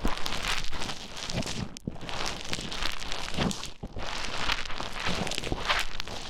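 Play foam being squished and stirred with an ear pick inside a microphone's ear: a close, continuous crackling, squelching texture in uneven strokes, with brief pauses about two and four seconds in.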